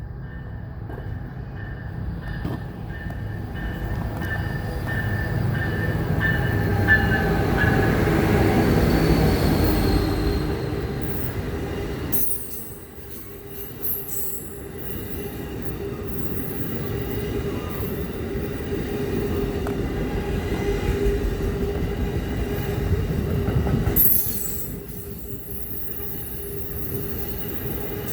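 Train passing close by with its wheels squealing on the rails: a rumble that builds over the first ten seconds, with a steady squeal on top. The sound drops away abruptly about twelve seconds in and again near the end, then picks up.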